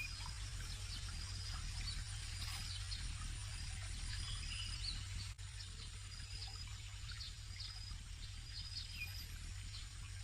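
Birds calling outdoors: repeated short high chirps, brief whistled notes and quick falling whistles, over a steady low rumble.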